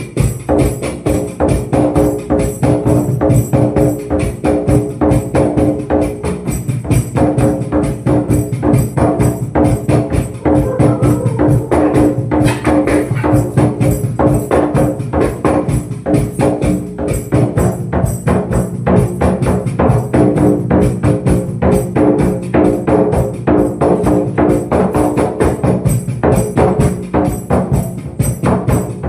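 Live hand percussion: a fast, steady rhythm of drum and tambourine strikes over sustained ringing tones, with no break in the playing.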